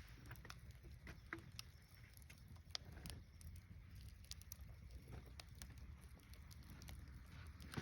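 Wood fire crackling faintly, with scattered sharp pops and snaps.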